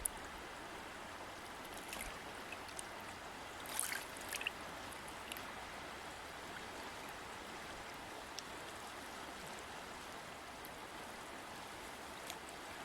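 River water flowing steadily over rocks, with a few brief splashes, the clearest about four seconds in.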